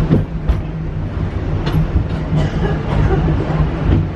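Wildlife Express train with a steady low rumble and hum, and a few sharp clicks spread through it.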